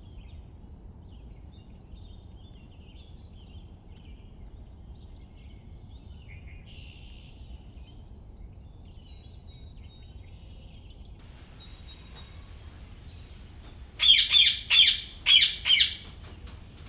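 Small birds chirping faintly and on and off over a low steady background noise, then near the end a loud run of rapid chirps in five quick bursts over about two seconds.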